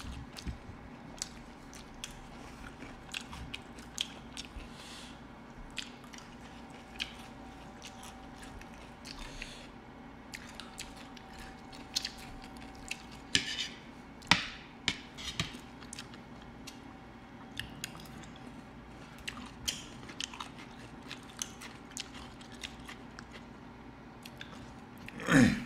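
Close-miked chewing and biting of fried chicken, with scattered sharp crunches and clicks throughout. A brief, louder sound comes near the end.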